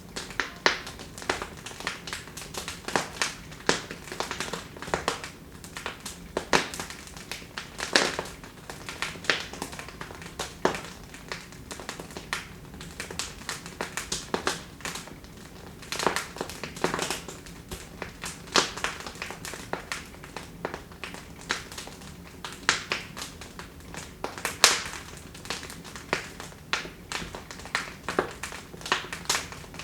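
Wood fire crackling in a fireplace: irregular sharp pops and snaps of burning logs over a soft steady hiss.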